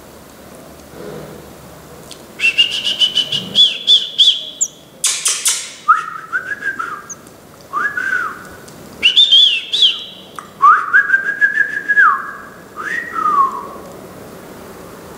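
Bird song in repeated bouts of clear whistled phrases starting about two seconds in. The first phrases are high, the later ones lower and sliding up and down, and some carry a fast crackling rattle, with a short harsh burst in between.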